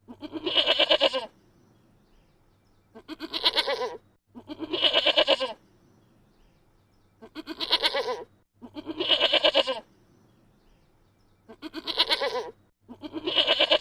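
Goat bleating: seven wavering bleats of about a second each, the first alone and the rest in pairs, with short quiet gaps between.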